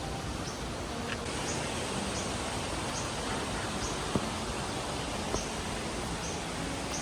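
Steady rush of rain-swollen floodwater in a mountain stream, with faint high chirps repeating every half second or so and two sharp knocks about four and five seconds in.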